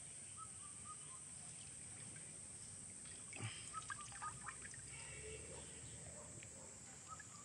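Faint riverside ambience: a steady high-pitched insect drone, with a small bird chirping in three short runs of calls. A single soft knock comes about three and a half seconds in.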